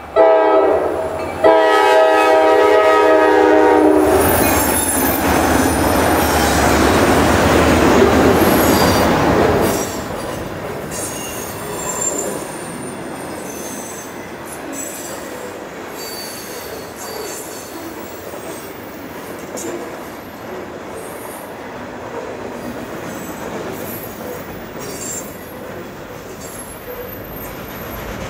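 Freight train locomotive horn sounding for a grade crossing, two blasts with the second longer, then the locomotive passing loudly. The freight cars then roll by with high-pitched wheel squeal and clickety-clack.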